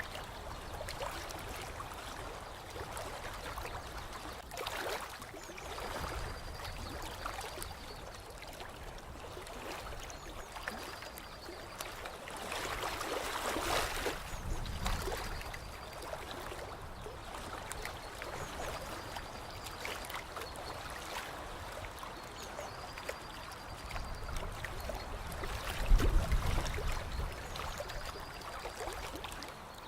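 Water trickling and gurgling, swelling for a couple of seconds about halfway through, with a short high note repeating every few seconds. Near the end a brief low rumble is the loudest sound.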